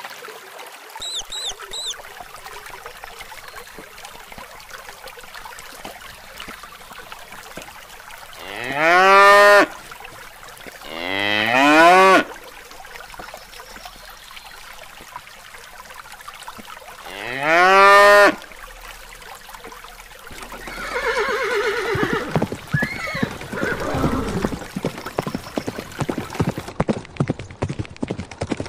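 Cow mooing three times, loud drawn-out calls that each rise in pitch.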